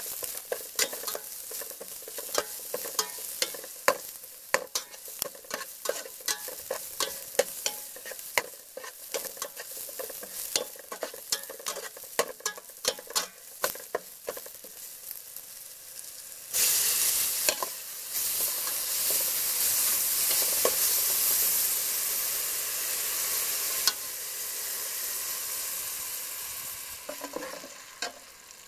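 Aromatics frying in an aluminium pot, with a metal spatula stirring and scraping against the pot in quick repeated clicks and taps over a steady sizzle. About halfway through, the sizzle suddenly rises to a loud, steady hiss, which holds for several seconds and then dies down near the end.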